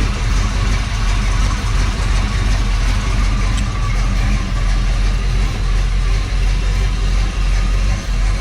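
Chevy Nova's small-block Chevy V8 idling steadily, still warming up after a cold start on a cold day.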